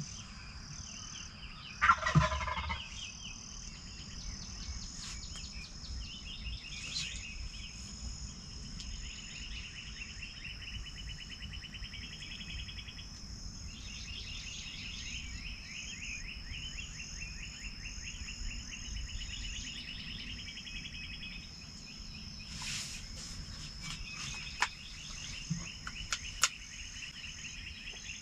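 Wild turkey gobbler gobbling loudly and close once, about two seconds in, over a steady high trilling of insects; a few sharp ticks near the end.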